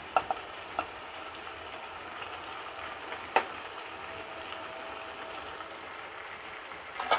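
Vegetables sizzling steadily in a hot wok as fried chicken pieces are tipped in from a steel bowl. A few light clicks of the spatula and bowl against the pan near the start, a sharper knock about three seconds in, and a louder clatter at the end.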